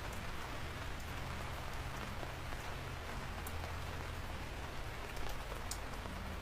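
Steady rain falling, with a few sharper drop ticks standing out now and then.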